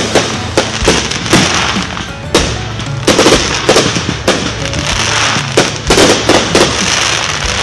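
Aerial fireworks going off in quick succession: many sharp bangs of shells bursting, irregularly spaced and often less than a second apart, over a steady hissing crackle.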